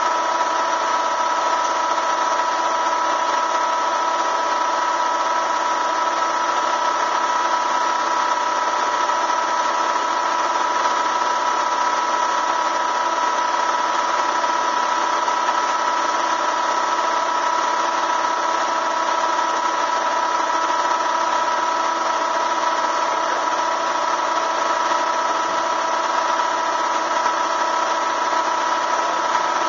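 A motor running steadily with a constant whine that does not change.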